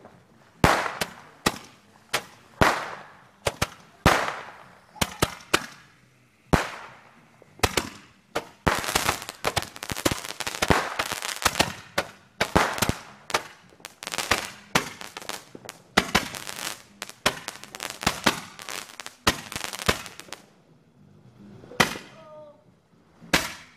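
Two 'Fireworks Fiesta' consumer fireworks going off together: a fast series of sharp bangs, each trailing away, packing into dense overlapping volleys in the middle and stopping about 20 seconds in, with a couple of last pops near the end.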